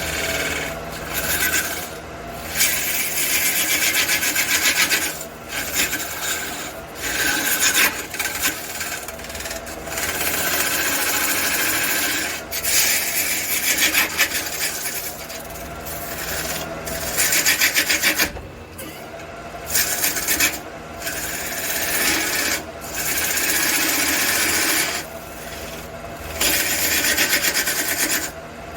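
Wood lathe running with a steady hum while a large aromatic red cedar blank spins, worked in repeated rasping passes of one to two seconds each, with short pauses between them.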